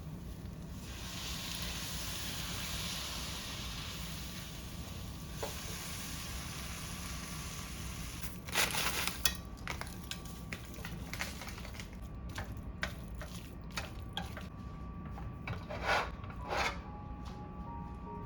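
Kitchen cooking sounds over a steady low hum. Food sizzles in a pan for the first few seconds, then utensils clink, knock and scrape against pots and pans, with a few louder scrapes about halfway through and again near the end.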